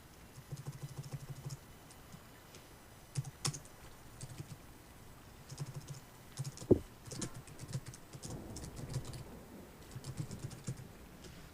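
Computer keyboard typing in short bursts of rapid key clicks with pauses between, and one sharper thump about two-thirds of the way in.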